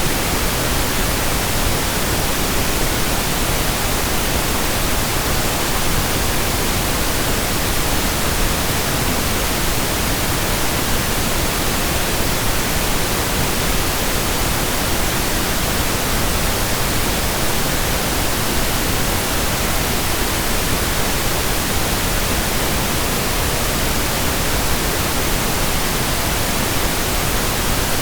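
Steady, even pink noise: a continuous hiss spread across the whole range, unchanging throughout.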